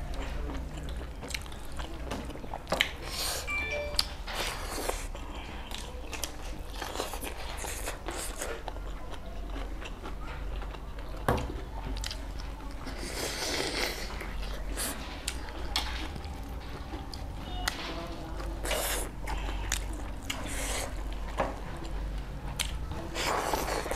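Close-miked eating sounds: two people chewing and smacking on mutton, rice and cucumber eaten by hand, with scattered short crunches and clicks over a steady low hum.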